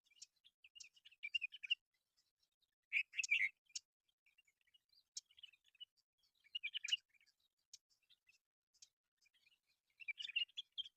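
Myna birds calling in short bursts of chattering, squeaky chirps, with sharp high clicks between them.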